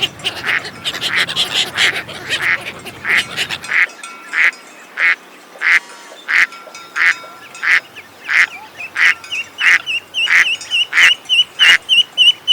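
Ducks quacking repeatedly, a short call about every half to two-thirds of a second. From about two-thirds of the way through, a quick run of high, thin chirps joins in.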